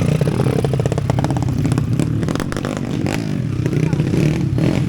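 Underbone motorcycle engines running, with people talking over them.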